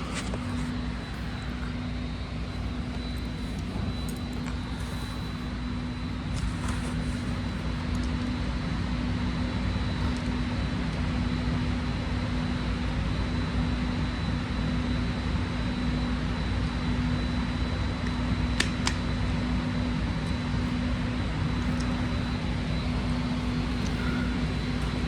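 Steady hum of a BART train standing at a station, its ventilation and onboard equipment running, with a constant low drone and a faint high whine.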